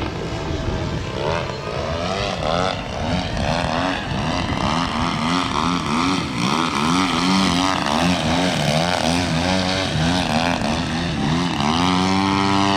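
Engine and propeller of a radio-controlled 3D aerobatic airplane in flight, the pitch rising and falling over and over as the throttle is worked through manoeuvres, then holding steady near the end.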